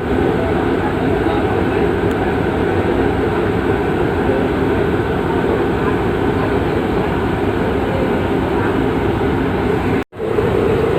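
Passenger ship's engines running with a steady drone. The sound cuts out abruptly for a moment about ten seconds in.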